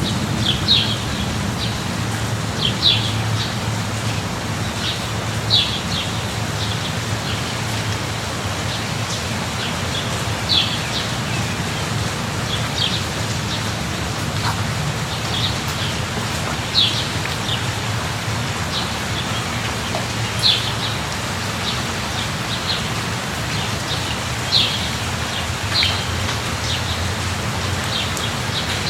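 Steady rain falling, with a low steady rumble underneath and short high bird chirps every few seconds.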